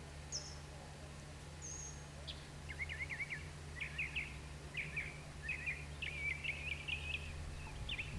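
A bird chirping: scattered high notes, then a quick run of short chirps from about two and a half seconds in, over a steady low hum.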